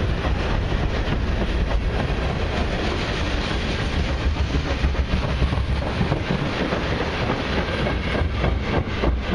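Freight cars of a long freight train (covered hoppers and tank cars) rolling past close by: a steady rolling noise of steel wheels on rail, with rapid clicking and clacking.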